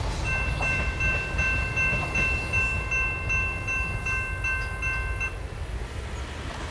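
Passenger train rolling by with a low rumble that slowly fades, while a railroad bell rings steadily at about three strokes a second and stops about five seconds in.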